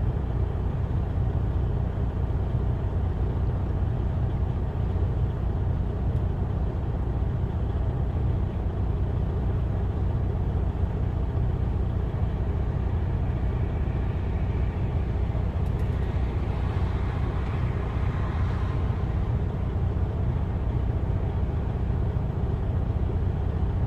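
Semi truck's engine giving a steady low rumble, heard from inside the cab.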